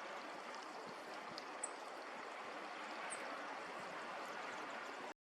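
Steady rush of running water, with two faint, short, high bird calls about a second and a half and three seconds in. The sound cuts off abruptly near the end.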